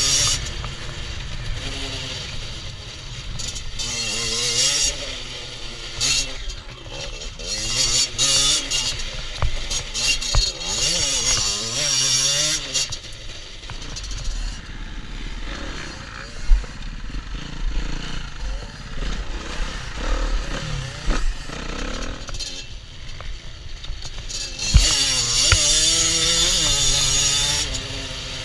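Beta RR 50 Factory's 50cc two-stroke engine revving up and down under load on a dirt track, its pitch rising and falling again and again as the throttle opens and closes.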